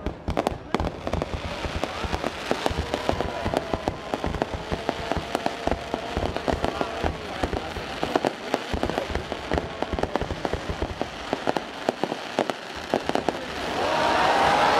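Fireworks crackling and popping in a rapid, irregular run of small bangs. Near the end, loud voices rise over them.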